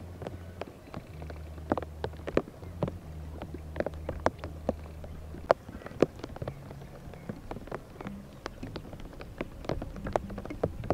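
Raindrops tapping on a surface: irregular sharp ticks, several a second, over a low steady hum.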